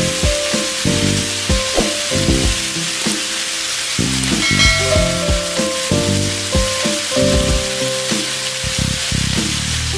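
Mushroom gravy and steak sizzling and bubbling in a hot pan, a steady crackling hiss, under background music with a beat.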